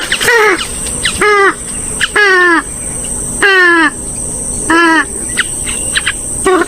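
Rail of the swamphen–moorhen kind calling loudly, about five short calls in a row, roughly one a second, each dropping in pitch.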